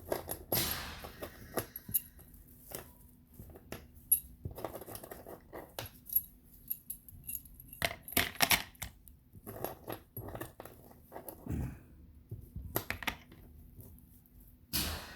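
Small metal parts, the battery's bus bar plates and terminal nuts, clinking and clattering as they are handled and dropped into a container, in a string of sharp, irregular clicks.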